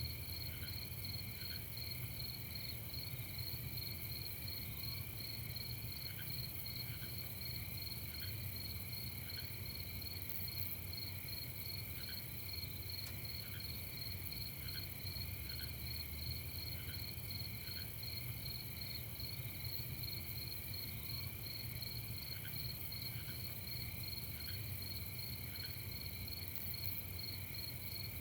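Crickets chirping in a steady, fast pulsing chorus of night insects, with short higher notes repeating about once a second and a low steady rumble underneath.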